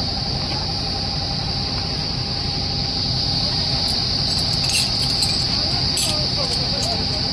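Steady high-pitched chorus of crickets over a continuous low rumble, with a few sharp clicks from about four and a half to six seconds in.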